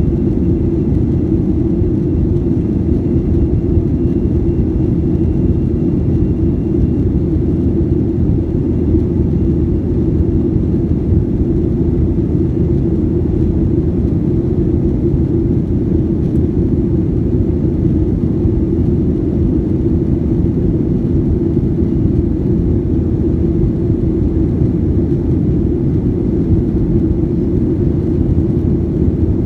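Steady low rumble of a Boeing 737-800 in flight, heard from the cabin: its CFM56 jet engines and the airflow over the fuselage, with a faint thin whine above the rumble.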